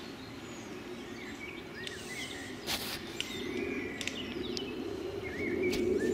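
Small birds chirping in short, scattered calls over a steady low rumble that grows louder toward the end, with one sharp click around the middle.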